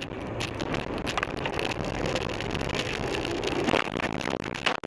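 Car driving noise picked up by a dashcam inside the car: a steady rushing haze of road and tyre noise with many faint ticks, like rain or grit on the car.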